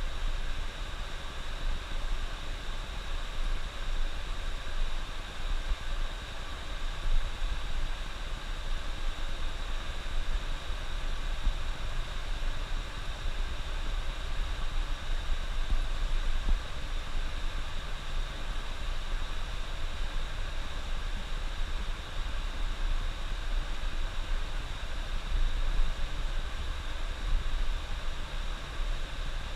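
Steady driving noise inside a bus under way in heavy rain: engine running with tyres on the wet road, an even drone with no distinct events.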